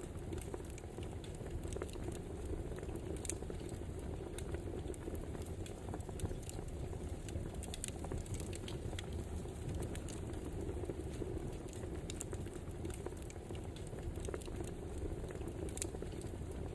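Wood fire crackling: a steady low rush with scattered sharp pops and snaps.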